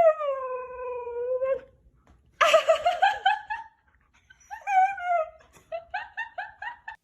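A dog talking back in howls: one long call falling in pitch, then a rougher, grumbling howl, and near the end a quick run of short yips, about four a second.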